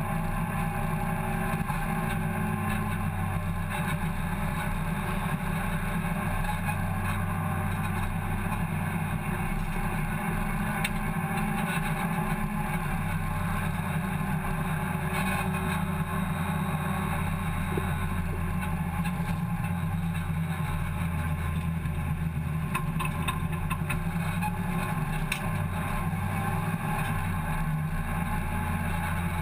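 Hot hatch race car's engine heard from inside its stripped, roll-caged cabin, running steadily on the move. Its pitch drops and rises a few times over road and cabin noise.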